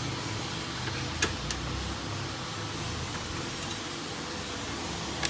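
Steady low background hum with two light clicks a little over a second in, as parts of the opened laser printer are handled.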